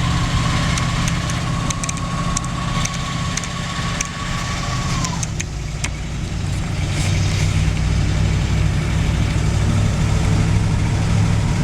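1972 Dodge D200 pickup's engine running as the truck cruises at low speed, heard from inside the cab. A thin steady tone sounds over it and drops away about five seconds in, and the engine grows louder from about seven seconds in.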